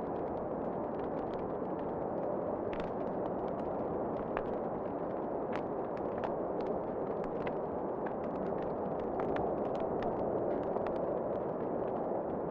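Wood fire in a fireplace crackling, with frequent, irregular sharp snaps over a steady rushing wind.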